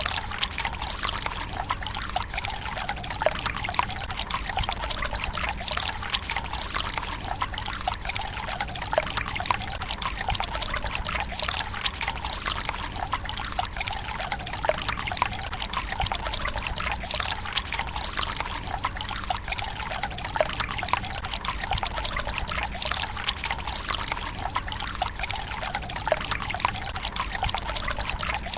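Water running from a bamboo spout into a Japanese tsukubai stone basin: a steady splashing trickle with many small, irregular drips and plops.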